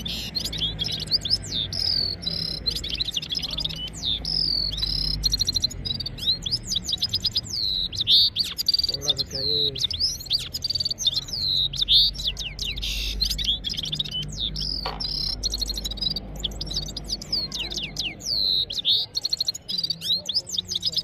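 Red-fronted serins singing a long, unbroken twittering song, full of fast trills and rapid high chirps.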